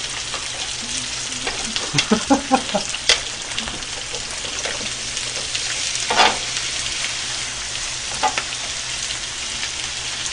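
Pork belly and kimchi sizzling steadily on a flat griddle, with a few short clicks and clatters of tongs and chopsticks against the plate, a cluster of them about two seconds in.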